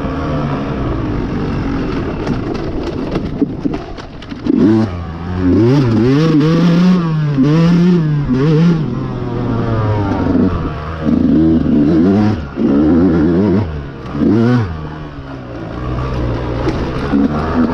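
Yamaha YZ125's single-cylinder two-stroke engine being ridden, the revs climbing and falling again and again with the throttle.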